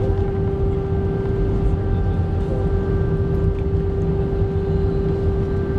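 Airbus A320 cabin noise: a steady low rumble of engines and airflow with a constant hum and fainter steady tones above it, heard from inside the cabin.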